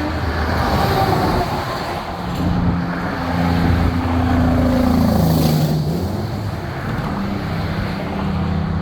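Heavy diesel trucks driving past in a convoy, with a steady engine drone and tyre noise. About five seconds in, the engine pitch drops and then climbs back up.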